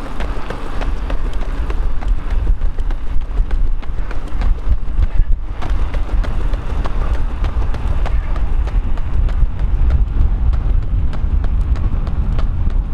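A runner's shoes striking the pavement in a quick, steady rhythm while he runs hard, with heavy wind rumble on the microphone.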